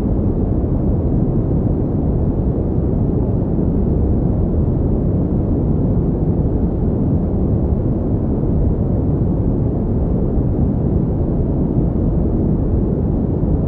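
Steady synthetic pink noise: an even, unbroken rush with most of its weight in the low end.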